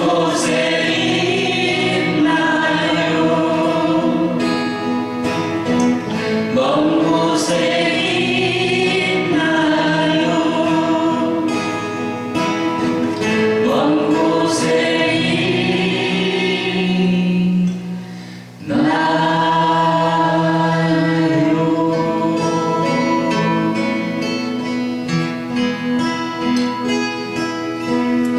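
Several voices singing a slow song together over strummed acoustic guitar, the sung phrases rising and falling, with a brief break about two-thirds of the way through before the singing resumes.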